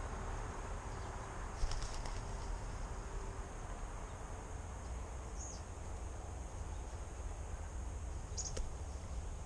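A few brief, high bird chirps, about three, over a steady low rumble and hiss.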